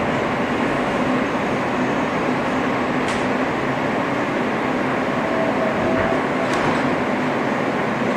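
Steady hum and hiss of an R160 subway car's ventilation and equipment with the train standing at a station, carrying a faint steady low tone and two faint ticks.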